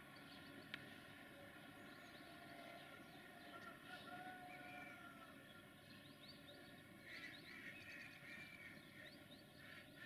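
Near silence: faint outdoor ambience with scattered small bird calls and one brief click about a second in.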